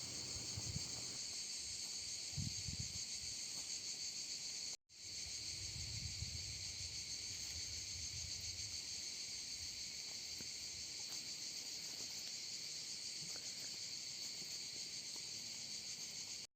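Steady, high-pitched chirring of an outdoor insect chorus, dropping out briefly about five seconds in. A faint low rumble sits beneath it.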